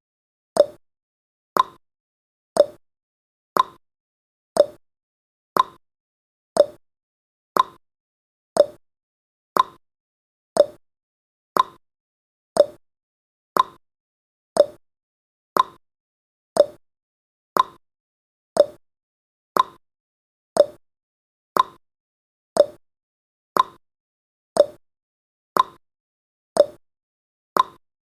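Clock tick-tock sound effect of a countdown timer, ticking once a second, alternating between a higher tick and a lower tock.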